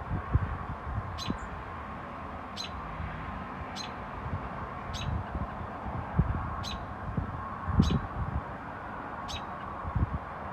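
A bird calling with short, sharp, high chirps, repeated evenly about every second and a quarter. Low dull thumps sound now and then underneath.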